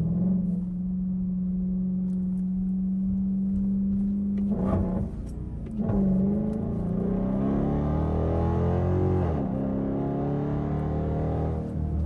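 Straight-piped Dodge Durango exhaust under hard acceleration. The engine note holds steady for a few seconds, breaks for a gear change, climbs in pitch through the next gear, then drops at another shift.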